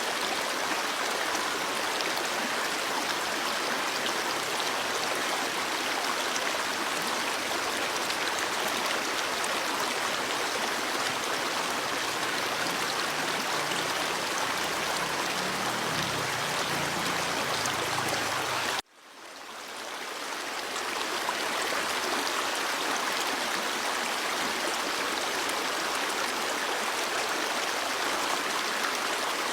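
Stream water running and splashing steadily. It cuts out abruptly about two-thirds of the way through and fades back in over a couple of seconds, like the join of a looped recording.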